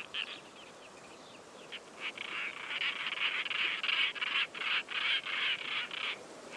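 European roller giving harsh, rasping calls, a run of rapid grating notes lasting about four seconds, after a few short chirps near the start.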